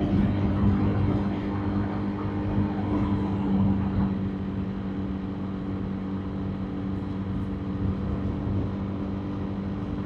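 Motorbike engine running at a steady pace, with wind and road noise. It is a little louder in the first few seconds.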